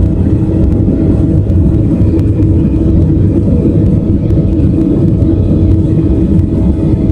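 Boeing 737-700 with its CFM56-7B turbofan engines running, a loud, steady low rumble with a few constant hums over it.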